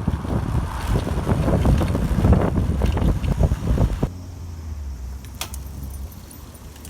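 Strong typhoon wind buffeting the microphone with a loud, gusting rumble. It cuts off suddenly about four seconds in, leaving a quieter low hum with a few light clicks.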